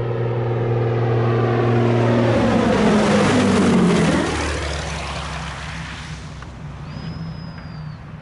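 Propeller aircraft passing close by. Its engine and propeller note is steady on the approach, drops sharply in pitch as it goes past about three to four seconds in, then fades away.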